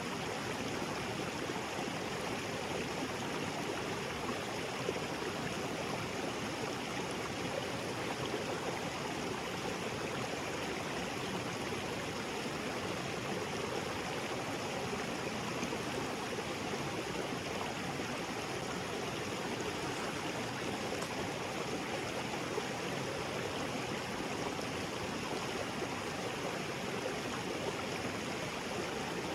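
Small waterfall splashing into a creek, a steady rushing of water with no breaks.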